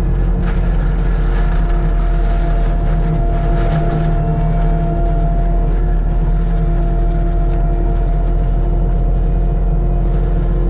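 Heavy land-clearing machine's diesel engine running steadily, with a constant whine over the low engine note.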